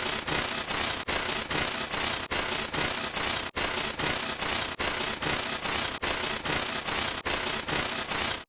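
A cartoon scream digitally distorted into harsh static-like hiss, with no pitch left in it. It stutters in short regular pulses about three times a second, as a looped sample.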